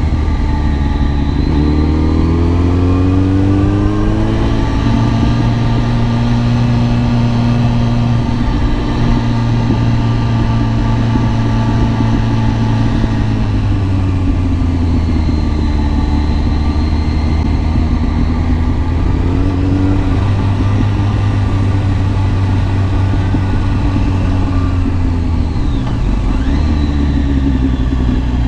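Kawasaki ZX10R's inline-four engine running under way. It rises in pitch as the bike accelerates over the first few seconds, then holds a fairly steady note with small rises and falls in revs, and drops briefly near the end.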